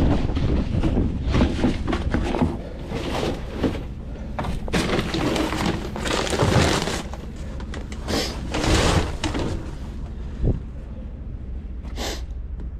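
Strong wind buffeting the microphone in uneven gusts, with scattered knocks and rattles.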